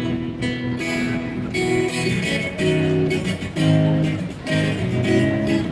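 Guitar strumming chords, the instrumental intro of a song before the singing comes in.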